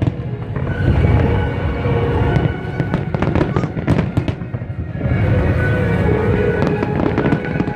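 A fireworks display going off: a dense run of sharp bangs and crackles over a continuous low rumble, with music playing underneath.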